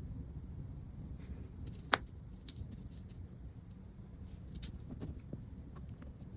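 Hands handling small parts on a work surface: light taps, clicks and rustles, with one sharp tick about two seconds in, over a low steady hum.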